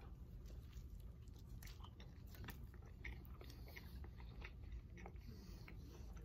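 A person chewing a mouthful of thick beef burger close to the microphone: faint, scattered small wet clicks of chewing over a low steady hum.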